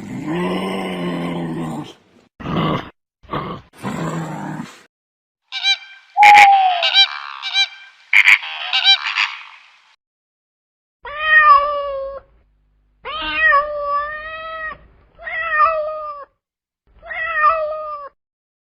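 A few varied animal calls, then a cat meowing five times, each meow about a second long and falling in pitch at its end.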